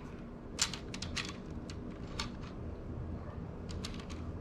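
Light, sharp plastic clicks and taps, a few in quick clusters, from N-scale model train cars being handled on the track and pushed together so their couplers engage.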